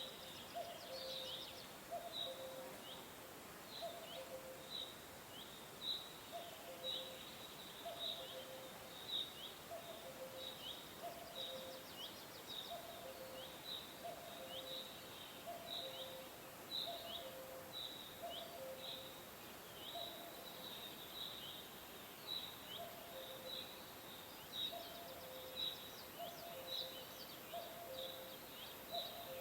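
Birds chirping: short falling chirps repeated about twice a second, with a lower two-note call, high then low, repeating about once a second underneath.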